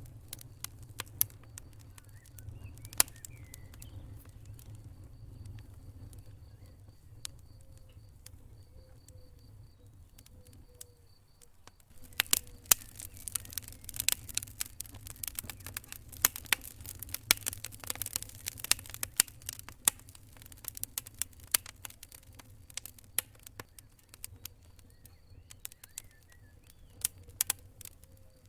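Wood fire crackling: sharp pops and snaps over a low steady rumble. The pops are sparse at first and come much thicker from about halfway through.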